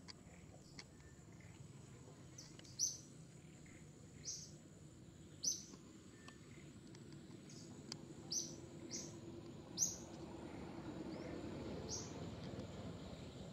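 A bird chirping outdoors: short, sharp, downward chirps repeated every second or two, over a thin steady high whine. A low rumble swells in the last few seconds.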